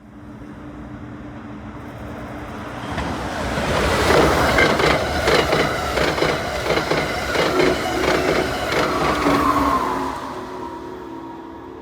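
Amtrak passenger train passing at speed, building up, then loud with a rapid run of wheel clicks over the rails for several seconds. A tone falls in pitch as it goes by near the end, and the sound fades away.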